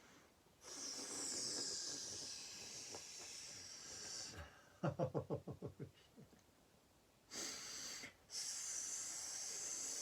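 A woman's mouth hiss imitating a cobra, long and high-pitched, done twice. Between the two hisses comes a quick burst of giggling and a sharp breath in.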